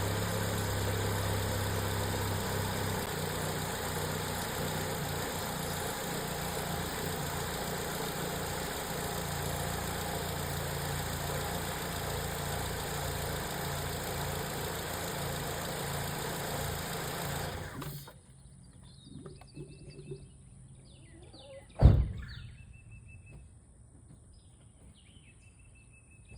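Ford 2.0 Duratec inline-four engine idling steadily, with a suspected blown head gasket. The engine sound cuts off suddenly about eighteen seconds in, leaving birds chirping and one sharp knock a few seconds later, the loudest sound here.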